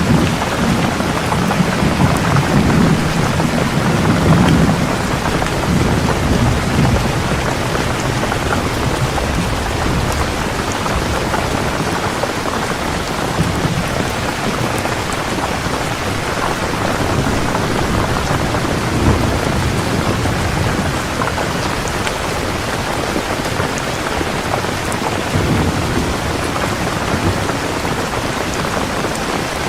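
Heavy rain pouring steadily, with low rolling rumbles of distant thunder in the first several seconds and twice more later on.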